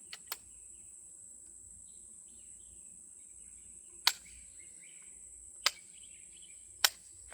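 Sharp metallic clicks from working the action of an old Remington shotgun: a couple of light ones at the start, then three louder single clicks about a second or more apart near the middle and end. Insects chirr steadily and high throughout.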